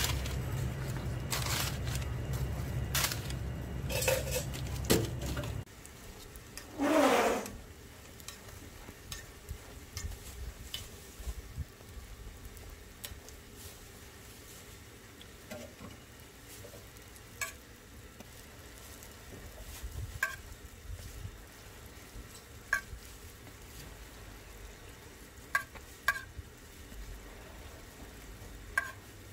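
Hotteok frying in oil on a flat griddle, a steady sizzle, with sharp clicks of metal tongs and a dough press against the griddle dotted through. A low hum stops about six seconds in, and a brief louder sound stands out about a second later.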